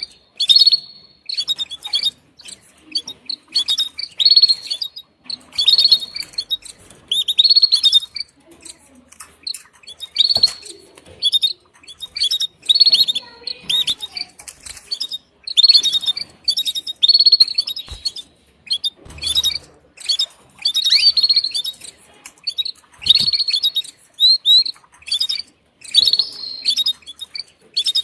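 Female canary calling to the male for mating: short bursts of high chirps and trills, repeated every second or two with brief pauses.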